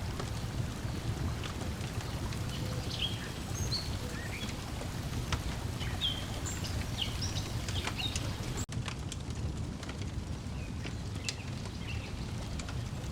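Lakeside ambience mix: water lapping in a steady wash, a wood fire crackling in scattered sharp pops, and songbirds chirping in short high notes. About two-thirds of the way in the sound drops out for an instant, and after that there are fewer bird calls.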